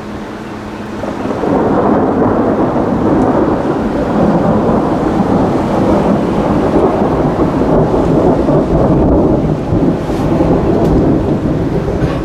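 Thunder rumbling, swelling about a second in and rolling on loudly for many seconds, with rain falling.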